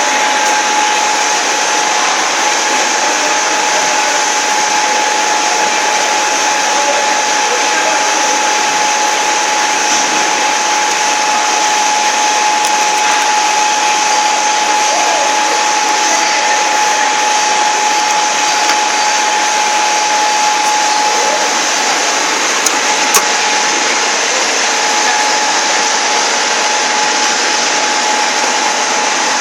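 VEG-25 end mill grinder's motor running steadily, a constant whine over an even rush of noise, with two brief clicks a little past the middle.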